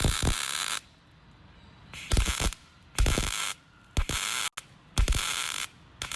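Resistance spot welder fusing a replacement wheelhouse panel to a truck bedside, one weld after another. Each weld is a short hiss of about half a second that starts with a sharp knock. There is one at the start, then a pause, then about one a second.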